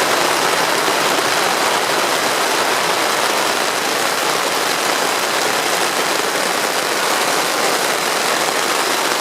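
Heavy rain pelting a tent's fabric in a steady, loud, unbroken hiss.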